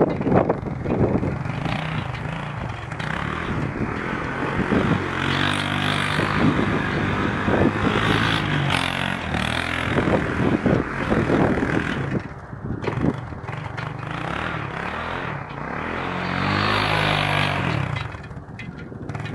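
Honda TRX200SX quad's single-cylinder four-stroke engine revving up and down as it is ridden in tight circles, the pitch rising and falling over and over. Its drive chain is worn and adjusted all the way out, and the rider says it really smacks while riding.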